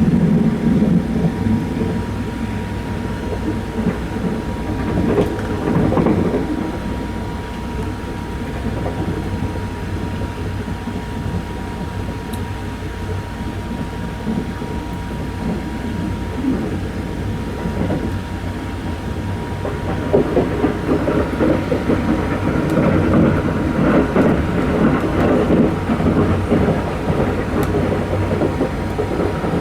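Sunrise Express 285-series sleeper train running on the rails, a steady rumble of wheels and car body with a faint steady high tone over it. It grows louder and rougher about two-thirds of the way in.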